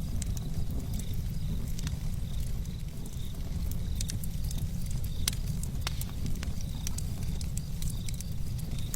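Wood fire crackling: irregular sharp pops and snaps from the burning firewood over a low steady rumble.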